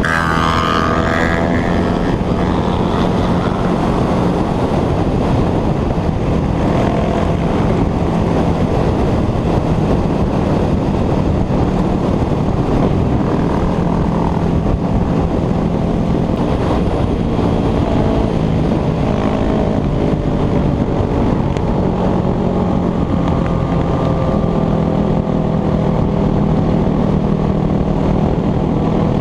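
Motorcycle engine running steadily while riding, its pitch climbing briefly at the start and then holding fairly even under a constant rush of noise.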